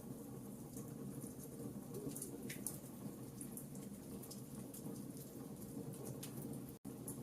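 Wood fire crackling in a fireplace: irregular small pops and snaps over a steady low rumble of the flames. The sound cuts out completely for a split second near the end.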